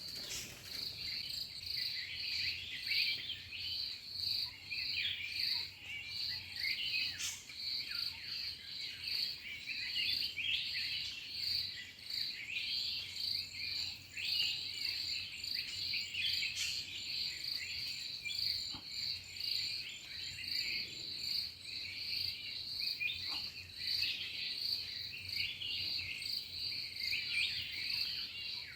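An insect calling in a steady high pulsing trill, about two to three pulses a second, over a busy chorus of small birds chirping and calling.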